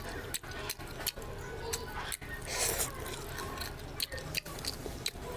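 Close-miked wet chewing and lip-smacking of a person eating mutton curry with rice, with irregular sticky clicks and a louder squelch about two and a half seconds in.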